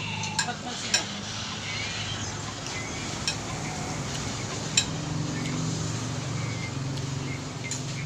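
Scattered sharp clicks and clinks of eating utensils and dishes during a meal, about five in all, over a steady background hiss and low hum.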